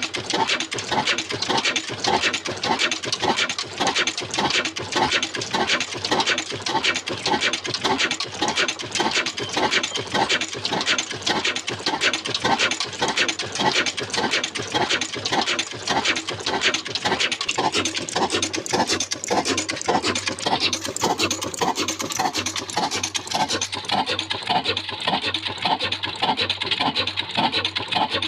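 Old black desi diesel engine running steadily while driving a flour mill, with a fast, even mechanical beat.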